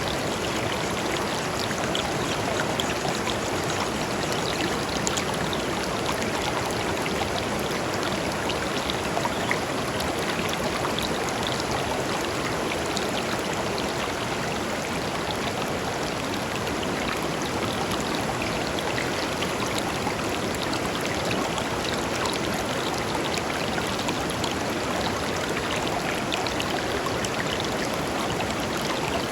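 Shallow river flowing over stones, a steady rushing babble with small splashes and droplet ticks scattered through it.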